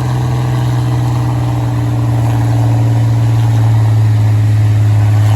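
International 3688 pulling tractor's diesel engine working hard under load, grunting: a loud, steady drone that sinks slightly in pitch and grows gradually louder.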